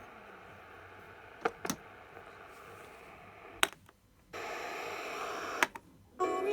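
Radio receiver hissing with static between stations, broken by several sharp clicks. The hiss drops out briefly near the middle and comes back louder.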